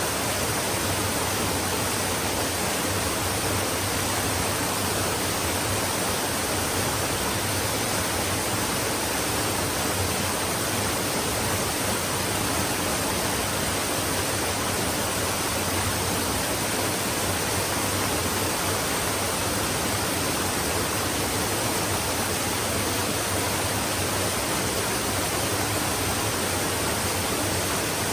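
Flowing stream water rushing steadily, an even, unbroken wash of sound.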